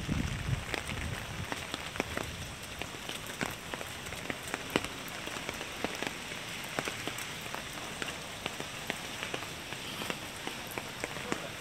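Steady rain falling on a wet street, with many distinct drop ticks over an even hiss. There is a low rumble in the first second or so.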